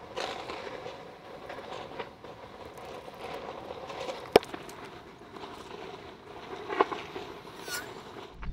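Quiet outdoor ambience with a faint steady background and a few small clicks, one sharp click about four seconds in.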